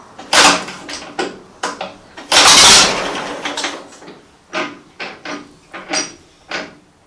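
1940 Fordson N tractor's four-cylinder side-valve engine firing unevenly during starting: a run of irregular bangs, the loudest about two and a half seconds in, then weaker pops about one every 0.7 s that die away near the end as the engine fails to keep running.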